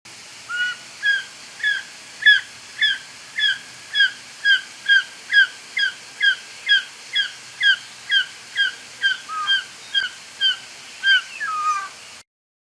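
A bird of prey calling: a long series of short, sharp, down-hooked notes repeated about twice a second. The recording cuts off abruptly near the end.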